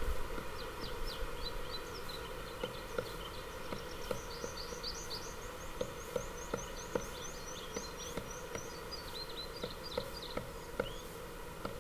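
Several small songbirds singing, many short high chirps, with a fast run of evenly repeated high notes in the middle. Irregular light knocks or taps sound every second or so.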